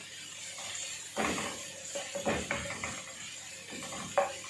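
A utensil scraping and knocking against a frying pan a few times, about a second in, twice near the middle and once near the end, as onion and garlic are stirred in hot oil, over a steady low sizzle.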